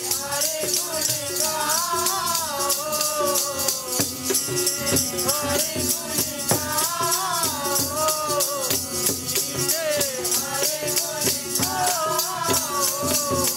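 Sikh kirtan: a voice singing a gliding melody over a steady held instrumental tone, with a fast, even rhythm of bright jingling, shaken percussion.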